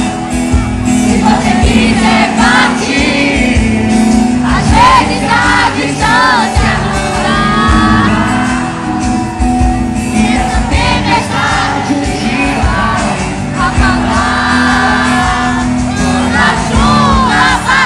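Live sertanejo pop concert: a band playing and a singer with the crowd, fans shouting and cheering over the music. The sound is loud.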